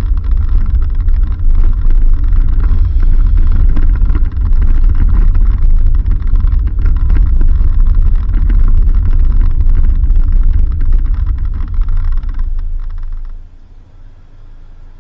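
Low, loud rumble of a vehicle driving on a dirt road. It drops away abruptly near the end.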